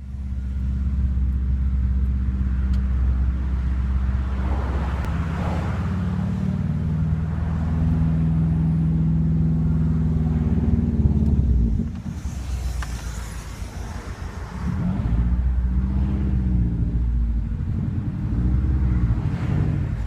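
2002 Subaru Outback's flat-four engine running through unequal-length headers and a cat-back exhaust with no muffler or resonator, under load with a loud, steady note. It drops away about twelve seconds in and comes back a few seconds later, its pitch rising and falling.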